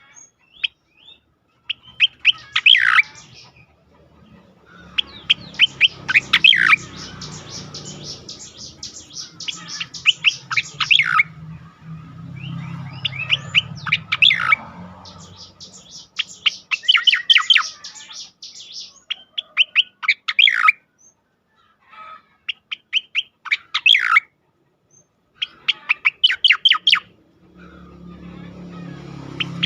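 Cica koreng (striated grassbird) singing its fast 'ngejoss' song: bursts of rapid, closely repeated high chattering notes, each lasting one to three seconds, separated by short pauses.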